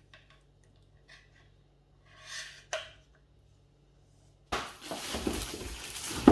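A few faint clicks and a short rustle of plastic vacuum accessories being handled. About three-quarters of the way through, music starts suddenly and much louder.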